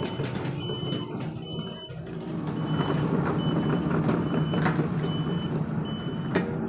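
Excavator's diesel engine running steadily under a high-pitched warning beeper that sounds about once every 0.8 s, with two sharp knocks in the second half.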